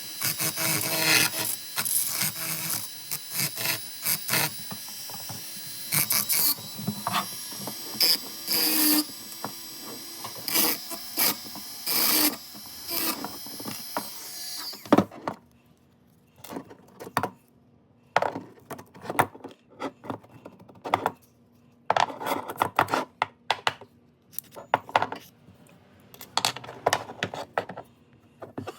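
A small electric power tool runs for about fifteen seconds with metallic clicking and rattling, then stops; after that come only scattered clicks and knocks of parts being handled.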